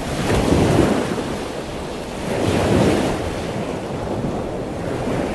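Ocean surf: a steady rushing of waves that swells twice, once about half a second in and again around the three-second mark.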